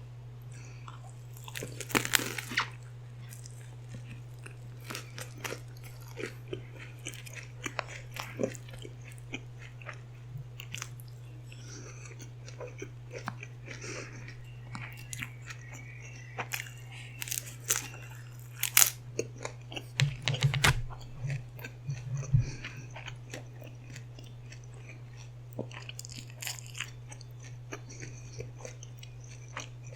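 Close-miked chewing and crunching of food, with louder crunchy bites about two seconds in and again in a cluster from about 18 to 22 seconds in. A steady low hum runs underneath.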